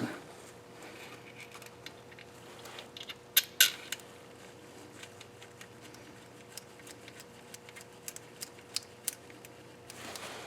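Small metal clinks and taps of hand tools and bolts being handled. There are scattered light ticks, with two sharper clinks about three and a half seconds in.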